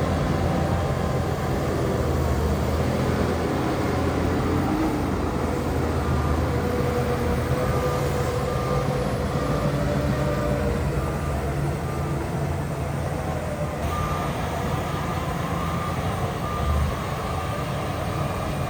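Heavy diesel earthmoving machinery running steadily. About halfway through, a reversing alarm starts beeping, a bit more than once a second.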